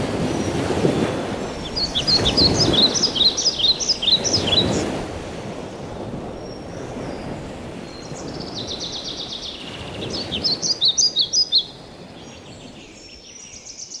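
Birds chirping in two bursts of quick repeated calls, about two seconds in and again from about eight to twelve seconds, over a steady background noise that is heaviest in the first few seconds.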